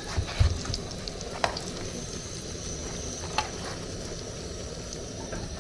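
Plantain fish pies frying in hot oil, a steady sizzle, with a few sharp clicks as they are handled.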